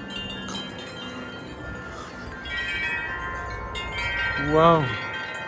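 Wind chimes ringing in gusty wind: several tuned tones overlap and keep sounding, with a fresh flurry of strikes about two and a half seconds in and another near the end.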